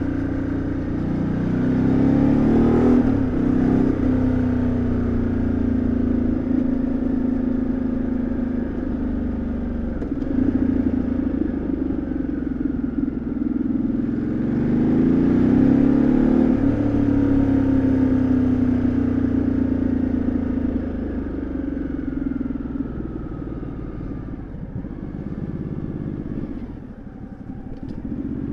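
2013 Ducati Multistrada 1200S's L-twin engine and exhaust on the move, revs climbing and falling through the gears. It pulls up with a gear change about three seconds in, pulls hard again midway, then backs off and slows before picking up near the end.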